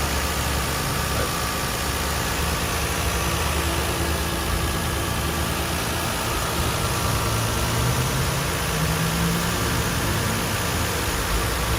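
Toyota Aristo S300's 2JZ-GE straight-six idling steadily while warming up from a cold start. It runs smoothly, with no squeals or other odd noises.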